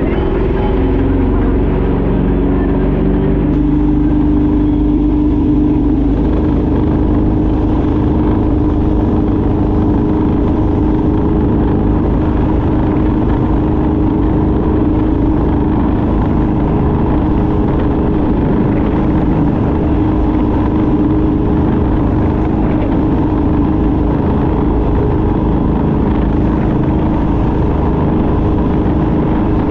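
Speedboat engine running steadily under way, holding an even pitch over a constant rush of noise, with the pitch settling after the first few seconds.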